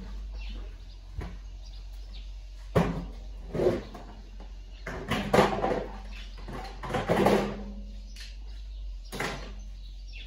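Knocks and scrapes of washing machine parts being handled during disassembly: about five separate clattering sounds spread over several seconds, over a steady low hum.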